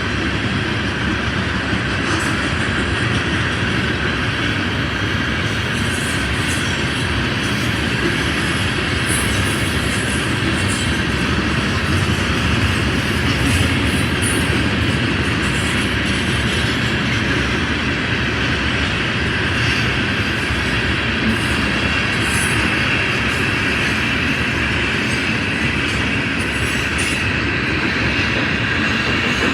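Herzog ballast train's cars rolling past, a steady rumble of steel wheels on rail with irregular clacking and a high, steady wheel squeal.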